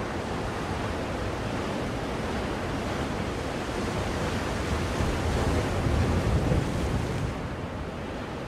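Ocean surf washing in, used as white noise to soothe a baby: an even rushing noise that swells about five seconds in as a wave breaks, then falls back about seven seconds in.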